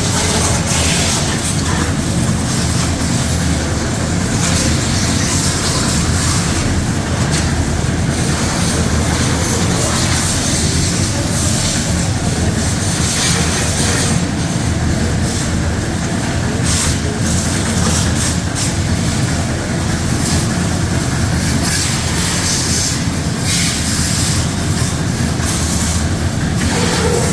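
High-pressure washer running steadily, its motor and pump droning with a dense rattle while the water jet sprays the engine bay.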